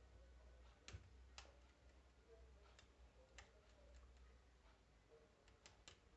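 Near silence over a low steady hum, broken by about six faint, sharp clicks of small metal parts and tools being handled during bench work on a car starter motor.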